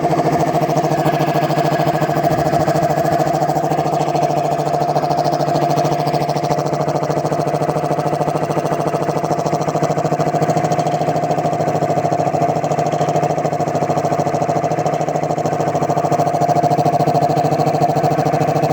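Air compressor with a newly fitted Puma compressor head, driven by an electric motor, running steadily in a working test.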